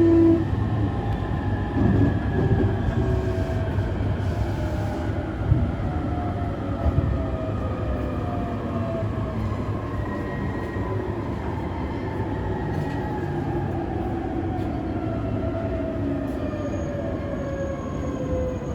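JR East E531-series train's Hitachi IGBT inverter and traction motors whining over the running rumble, the whine falling slowly in pitch as the train slows toward its station stop. A few brief knocks from the wheels and track come through in the first half.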